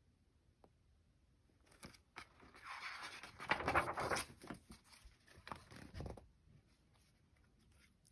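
A picture book's paper page being handled and turned: a few seconds of faint rustling with light clicks, loudest in the middle.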